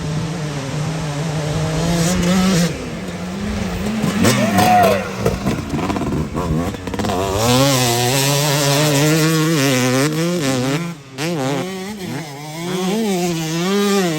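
Dirt bikes riding on a motocross track: a steady drone at first, then the pitch rising and falling over and over as the throttle is worked.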